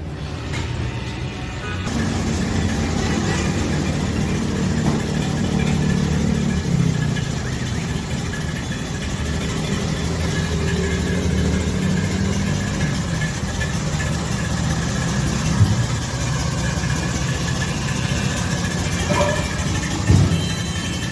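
Massey Ferguson MF 240 tractor's three-cylinder direct-injection diesel engine running steadily. It gets louder about two seconds in, and a couple of brief knocks come later.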